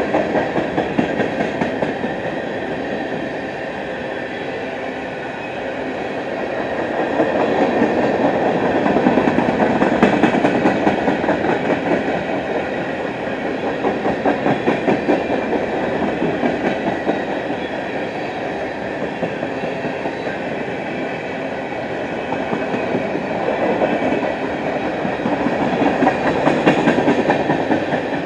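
Empty freight cars of a CSX manifest trash train rolling past, steel wheels clicking over rail joints, the noise swelling and easing as the cars go by.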